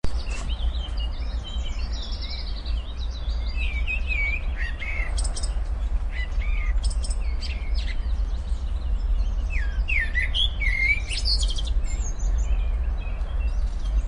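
Several small songbirds chirping, short quick calls that glide up and down in pitch and overlap, over a steady low rumble.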